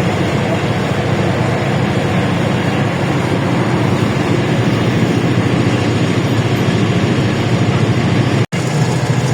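LiAZ-677M bus's ZIL V8 petrol engine running steadily with a low hum. The sound drops out for an instant about eight and a half seconds in.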